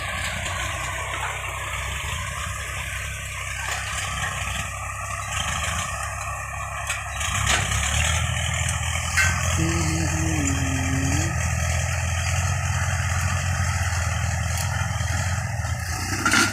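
Tractor engine running steadily, growing louder and deeper about seven or eight seconds in, as it comes under more load.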